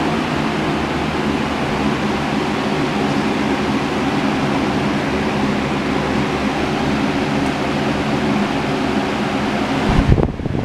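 Lasko 3733 box fan running steadily on its medium setting: an even rush of air over a low motor hum. About ten seconds in, a few knocks come as its knob is turned, and the steady rush drops sharply.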